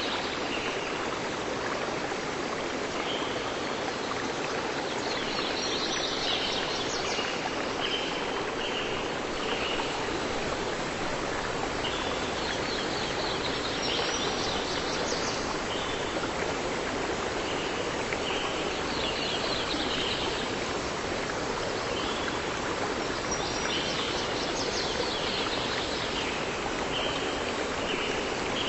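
Steady rush of a flowing stream, with a songbird singing short trilling phrases every few seconds over it.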